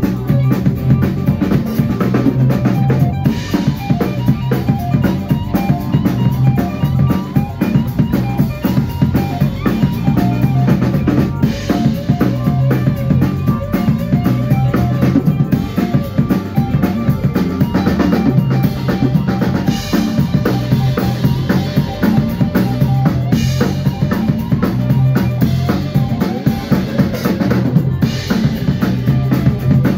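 Band music with a drum kit to the fore: kick drum, snare and rimshots keeping a steady beat over a low sustained bass line.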